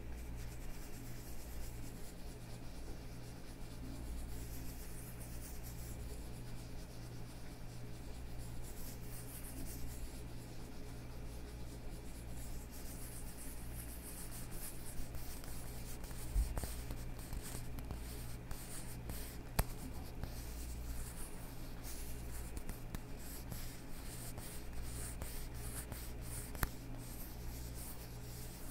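Leather gloves on hands rubbing and creaking: a soft scratchy rustle that grows into dense crackling in the second half, with a few sharp clicks, over a steady low hum.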